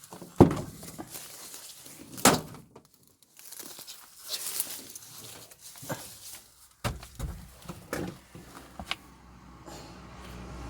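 Two sharp knocks, about half a second and two and a quarter seconds in, amid rustling and handling noises; a low steady hum sets in about seven seconds in.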